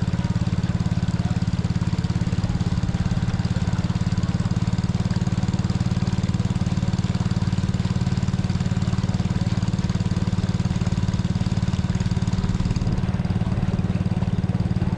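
Small boat's motor running steadily at an even speed, with a low, rapid, regular chugging.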